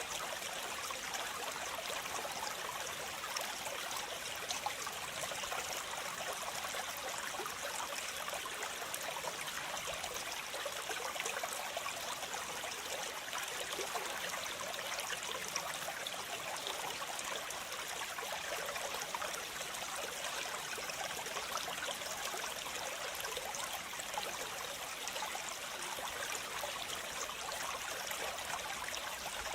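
Waterfall: a steady rush of falling and flowing water, even and unbroken, with most of its sound in the higher register and little low rumble.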